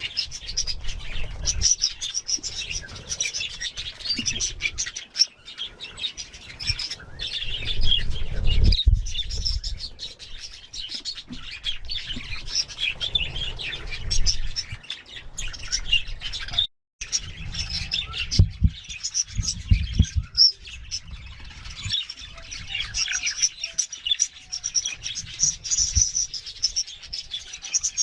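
Budgerigars chirping and chattering continuously in a dense, high-pitched stream, over a low rumble. The sound cuts out completely for a moment around two-thirds of the way through.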